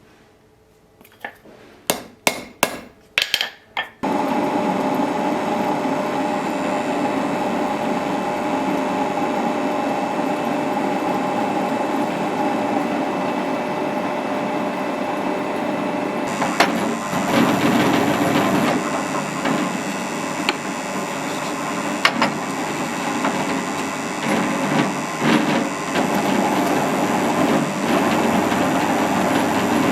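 About six quick, sharp knocks in two seconds, then an electric power tool in a knifemaking workshop starts and runs steadily. From about halfway through its sound turns rougher and more uneven, with scattered knocks.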